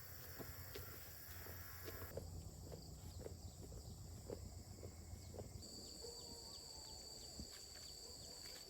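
Faint outdoor ambience with scattered light clicks, and from about six seconds in a steady high-pitched insect drone.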